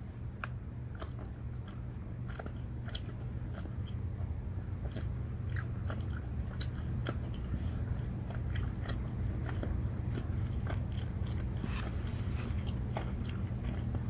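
A person chewing sour gummy bears with scattered wet mouth clicks, over a steady low hum.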